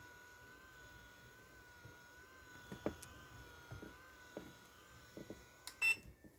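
Roller making an abnormal noise while pressed inward: a steady, slightly wavering whine with scattered clicks, ending in a brief loud harsh noise near the end, when the whine stops.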